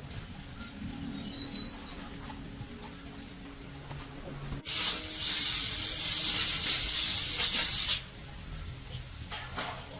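Compressed air hissing from an air line for about three seconds, starting abruptly about halfway in and cutting off suddenly.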